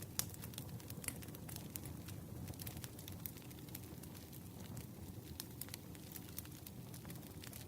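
Wood campfire burning, crackling with irregular sharp pops over a low steady rumble of flame; the loudest pop comes just after the start.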